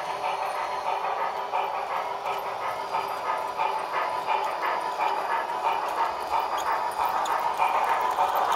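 Model train running along the track: a steady rolling rumble with regular light clicks from the wheels over the rail joints.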